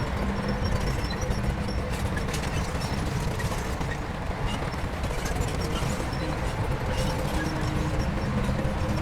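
Heavy diesel engine of earthmoving machinery running steadily, with scattered light clicks and clatter over the rumble.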